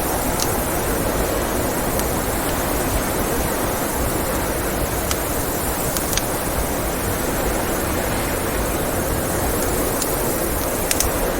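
Steady blizzard wind making a constant rushing noise, with a wood fire giving off a few sharp crackles and pops here and there.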